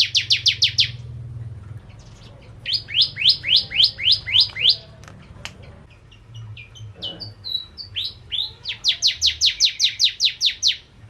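Bar-winged prinia (prenjak jawa / ciblek) singing: a fast, high trill of rapidly repeated falling notes, then a slower run of about seven notes, then a few scattered chips, and another fast trill near the end.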